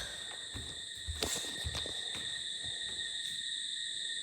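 Robot vacuum running with a steady high-pitched whine, with a few light knocks and clicks.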